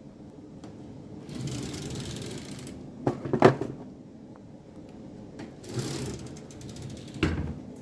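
Handling noises: rustling and a few sharp knocks and clicks as a flashlight is fetched and objects are moved about, with the loudest knocks a little past the midpoint.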